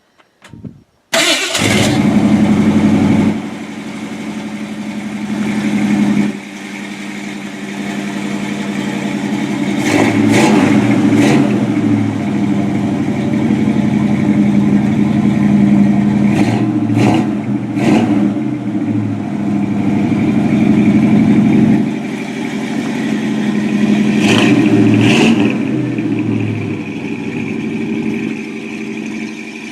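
A cold Ford 302 small-block V8 with dual exhaust starting up on the choke about a second in, catching at once and then running at a fast cold idle. Its speed rises and falls several times.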